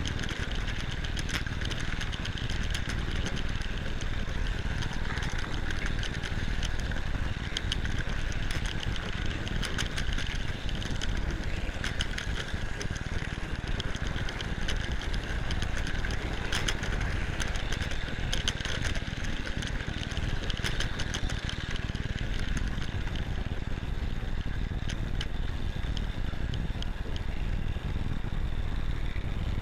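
Hornby Dublo three-rail model train running on its track, heard close up from a camera riding on the train: a steady electric-motor whine and wheel rumble with scattered sharp clicks.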